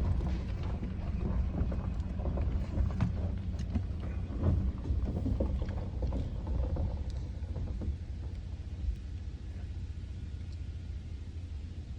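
A vehicle running with a low rumble, with scattered clicks and knocks; it grows quieter after about seven seconds.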